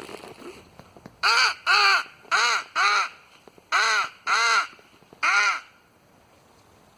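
Nordik crow call blown in a series of seven loud caws, a run of four and then a run of three, each note arching up and down in pitch.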